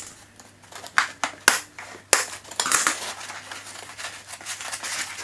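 Polystyrene foam packing being pulled out of a 3D printer's box: a few sharp cracks in the first two seconds, then a run of rustling and scraping.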